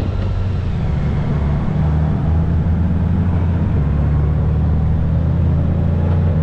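Honda Gold Wing F6B flat-six engine running at a steady cruise while riding, a low even drone, with wind rushing over the microphone.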